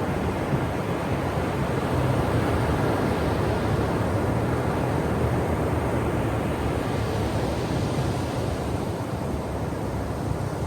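Ocean surf on a shore: a steady wash of breaking waves with no distinct crashes, swelling a little a few seconds in and easing off toward the end.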